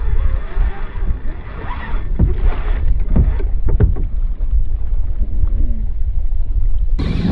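Low, steady wind rumble on the microphone of a kayak on open water, with a few sharp knocks about two to four seconds in.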